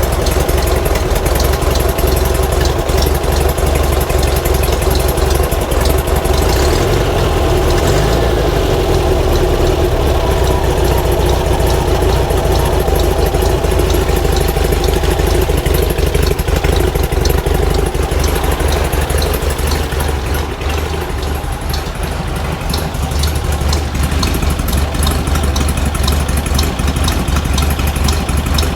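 Air-cooled flat-four engine of a 1950s VW Bus running steadily at idle, dipping slightly in level for a few seconds past the middle.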